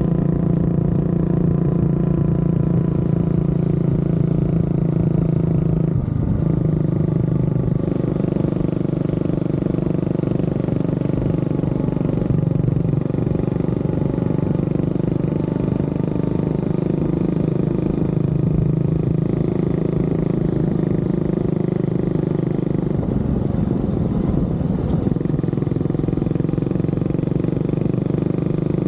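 Honda CB400SS single-cylinder four-stroke engine running steadily while riding, with brief changes in the engine note about six seconds in and again around twenty-four seconds in.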